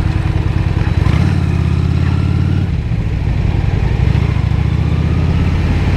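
Honda Shadow 750's V-twin engine running under throttle as the motorcycle joins a highway, heard through a helmet microphone with wind noise. The engine note changes about a second in and dips briefly near the middle before pulling again.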